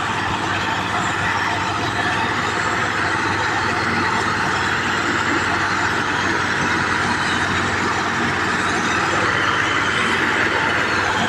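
Tractor engine running loudly and steadily.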